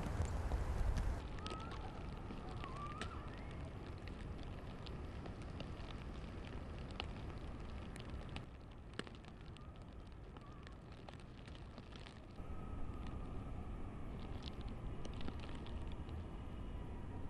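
Outdoor ambience in a snowstorm: a steady low rumble with scattered light clicks. The sound changes abruptly three times, about a second in, midway and about three-quarters through.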